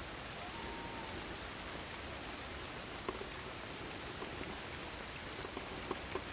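Steady rain, an even hiss with a few drops ticking now and then.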